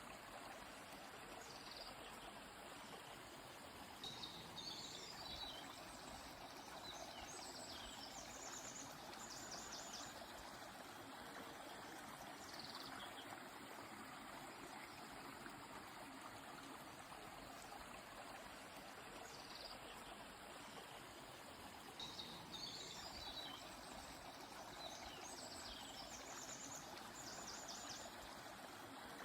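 A river flowing steadily with a soft rushing sound. Birds sing short high phrases of quick notes every few seconds over it.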